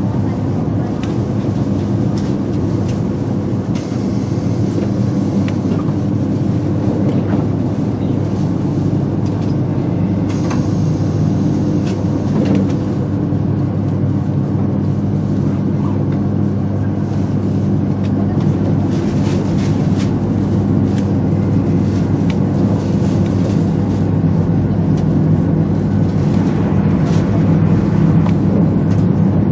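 Running noise of a 200 series Shinkansen at speed, heard inside the cabin: a steady rumble of wheels on rail with a low hum. It grows a little louder near the end as another train passes on the adjacent track.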